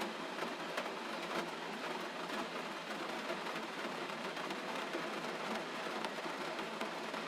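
Gentle rain falling steadily, an even hiss with faint scattered drop taps.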